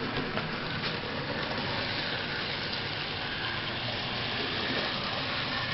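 Model steam locomotive running along the layout track: a steady whirr of its small electric motor and wheels on the rails, with a few faint clicks.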